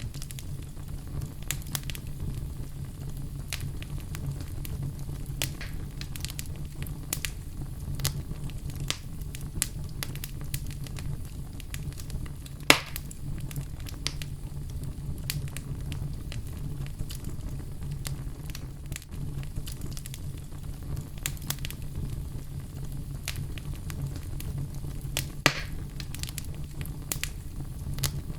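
Wood fire in a fireplace crackling, with a steady low rumble of flame under irregular sharp pops and snaps. Two louder pops come about halfway through and near the end.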